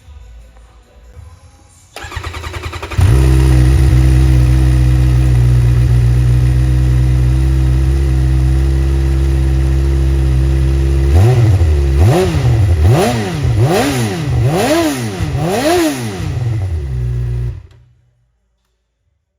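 2013 Suzuki GSX-R600's inline-four engine through its stock exhaust: cranked on the starter for about a second, then catching and idling steadily. From about eleven seconds in come five or so quick throttle blips, each rising and falling in pitch. The sound cuts off suddenly near the end.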